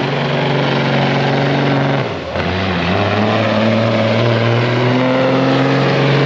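Semi truck's diesel engine at full throttle pulling the sled. About two seconds in the engine note and level drop briefly, then the pitch builds again as it revs back up.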